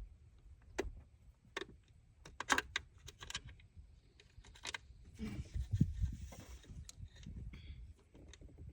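Scattered light clicks and knocks of hand tools and small parts being handled, with a short stretch of rustling and clatter about five seconds in.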